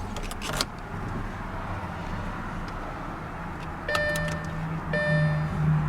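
Lamborghini Gallardo Superleggera cabin at ignition-on: a few clicks, then a steady low hum. From about four seconds in, an electronic warning chime repeats about once a second.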